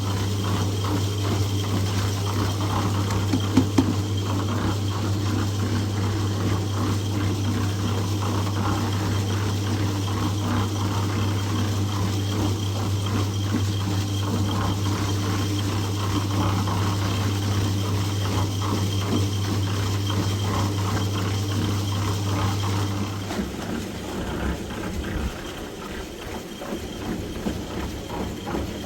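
A machine running with a steady low hum and a rattling, clattering noise; the hum cuts off suddenly about 23 seconds in, and the rattling goes on more quietly.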